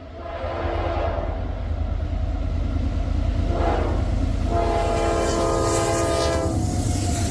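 Diesel locomotive horn on a Norfolk Southern freight train sounding for a grade crossing: a blast of about a second, a short one, then a long one of about two seconds, over the low rumble of the approaching train.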